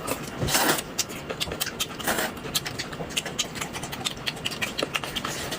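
A person eating a roujiamo: close-up mouth sounds of biting and chewing, with many small irregular crisp clicks.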